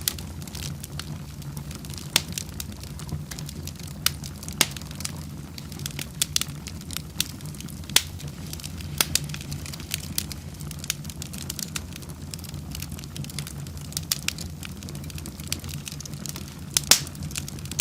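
Wood fire in a fireplace crackling, with frequent irregular sharp pops over a steady low rumble, and one loud pop near the end.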